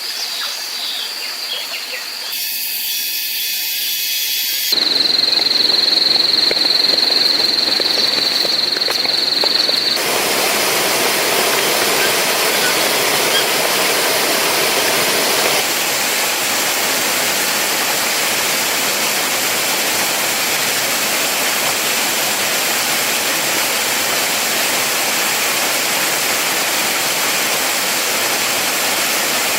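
Steady rush of a waterfall, with abrupt cuts in the sound during the first ten seconds. A steady high whine sounds over it from about five to ten seconds in.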